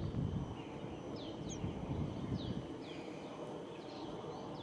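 Birds calling with short, high notes that sweep downward, repeating about once a second over a low outdoor rumble.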